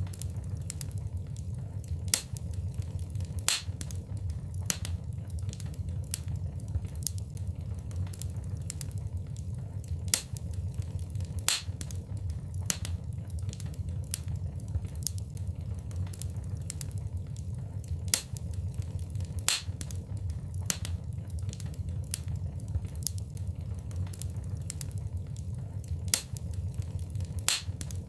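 Wood fire in a fireplace crackling, with sharp pops and snaps at irregular intervals over a steady low rumble.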